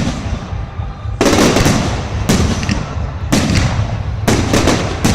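Fireworks exploding overhead, about one loud bang a second, each trailing off in a rumbling echo.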